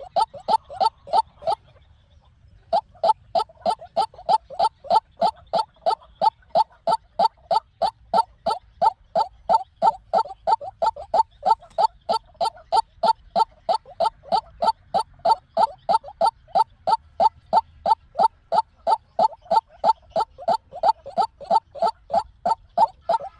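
White-breasted waterhen calling: a long, monotonous run of short, identical notes at about three a second, with one brief break about two seconds in.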